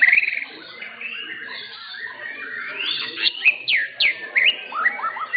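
White-rumped shamas (murai batu) singing, several at once: fast whistled phrases full of quick rising and falling sweeps. A run of loud, steep falling whistles comes about three to four seconds in.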